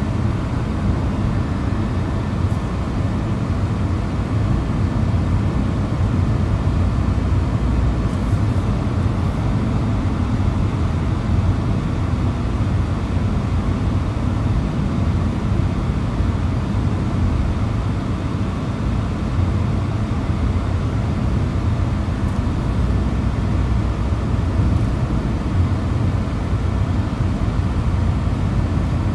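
Steady low rumble of a vehicle on the move, road and engine noise.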